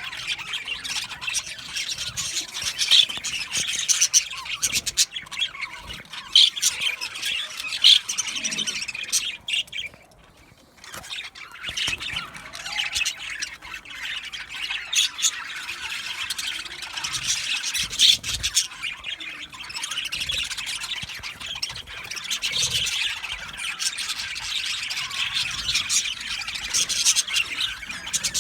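A colony of budgerigars chattering in an aviary: a dense, continuous chorus of overlapping chirps, squawks and warbles. It drops away briefly about ten seconds in, then resumes.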